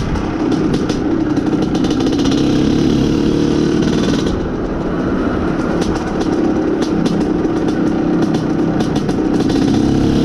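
Izh Planeta Sport's single-cylinder two-stroke engine running under way on the move, its note easing off about four seconds in and building again toward the end.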